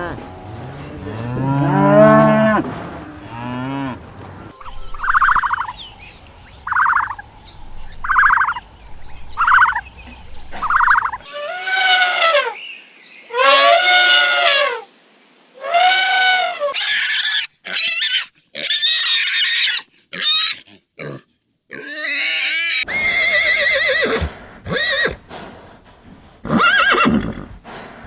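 A run of different farm animal calls one after another: a cow's low moo at the start, then about six short repeated calls, then three long arching calls, then a quick string of varied calls near the end.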